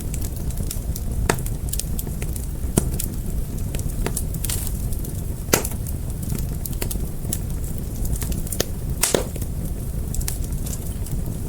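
Fire crackling: a steady low rumble of flames under frequent sharp pops and snaps, a handful of them louder than the rest.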